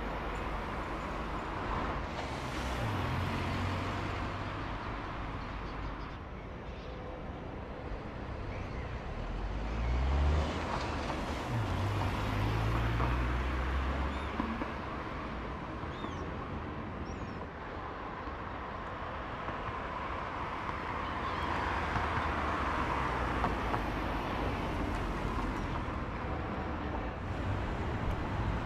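Volkswagen Cross up!'s small three-cylinder petrol engine driving past several times over steady street traffic noise. Its engine note rises as it accelerates about ten seconds in.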